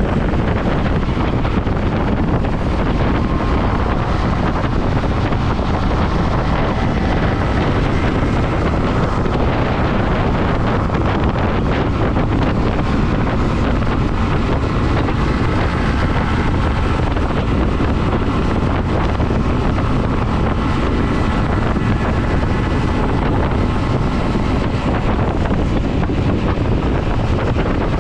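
Steady wind buffeting the camera microphone on a moving motorcycle, with the bike's engine running underneath at a steady speed.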